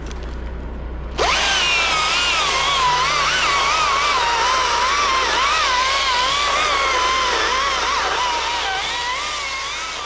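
Chainsaw revving up about a second in and held at full throttle, its pitch wavering under load as it cuts through wood.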